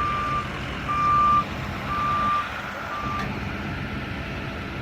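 A truck's reversing alarm beeping at one steady pitch, about one beep a second, over a low engine rumble. The beeping stops about three seconds in, with a short click.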